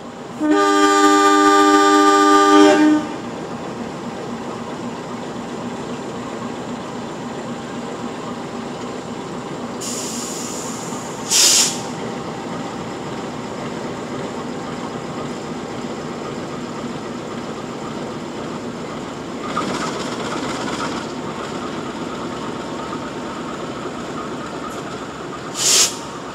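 A diesel locomotive horn sounds one long blast of about two and a half seconds, then the steady rolling rumble of a passenger train's coaches passing on the rails. Two short high metallic squeals cut through, one about halfway and one near the end.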